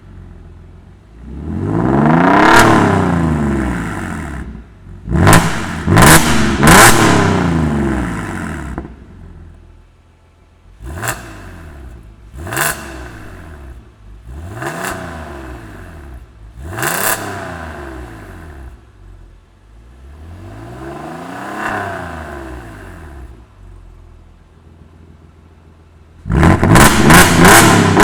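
Genesis EQ900's 3.8-litre Lambda II V6 revved repeatedly through an aftermarket dual valved exhaust with a sport resonator and an H-pipe crossover, dropping back to idle between revs. A slower rev comes first, then quick blips, single sharp blips about every two seconds, another slow rev, and a rapid flurry of blips near the end.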